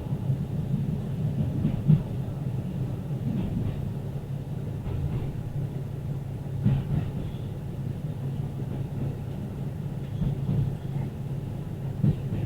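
Diesel local train on the Muroran Main Line running, heard from inside the car: a steady low rumble with a few sharper knocks from the wheels.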